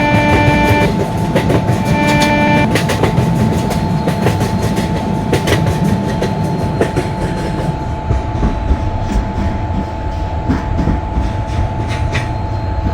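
A long passenger train running past at high speed, its wheels clattering over the rail joints in a dense run of clicks over a steady rumble. A held pitched tone sounds in the first second and briefly again about two seconds in.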